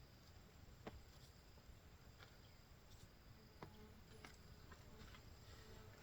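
Near silence: a faint steady high insect buzz, with a few soft scattered clicks.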